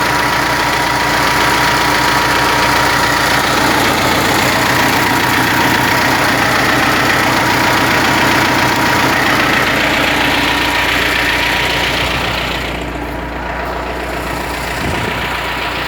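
T-40 tractor's air-cooled diesel running steadily just after a cold start following winter storage. It becomes somewhat quieter about twelve seconds in.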